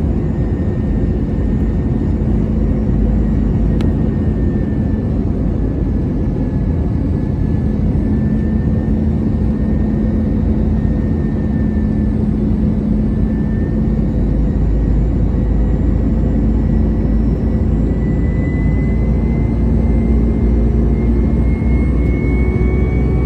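Steady roar inside the cabin of an Airbus A320-214 in flight: its CFM56 jet engines and the air rushing past the fuselage, with a steady hum and a faint whine that climbs slowly in pitch near the end.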